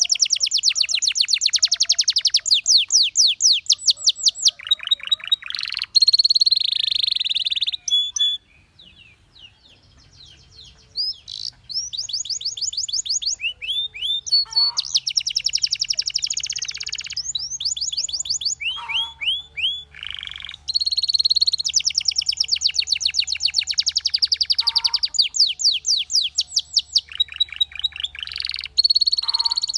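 Canary singing: fast trills of rapidly repeated sweeping notes, phrase after phrase, with a short pause about eight seconds in before the song resumes.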